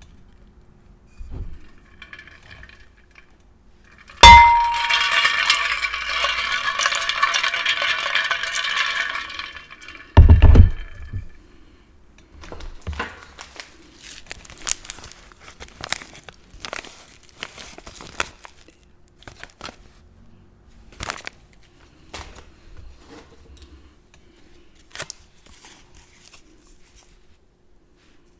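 Crisp crackling of chips and a snack bag for about five seconds, starting with a sharp knock. Then a heavy thump, followed by scattered sharp crunches and clicks of chips being handled and bitten.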